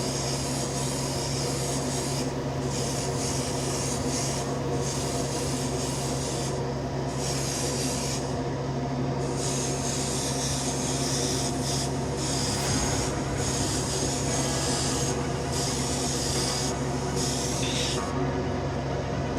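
Mr. Hobby Procon Boy LWA trigger airbrush spraying paint in repeated hissing bursts as the trigger is pulled and released, over the steady hum of the air compressor.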